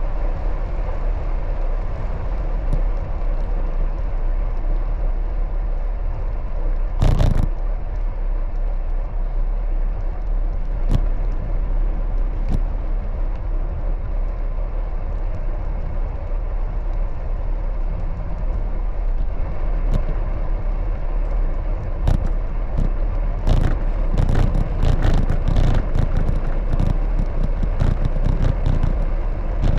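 Steady low rumble of a bicycle rolling along the road, with knocks and rattles from bumps: a loud thump about seven seconds in and a busy run of rattling over the last several seconds.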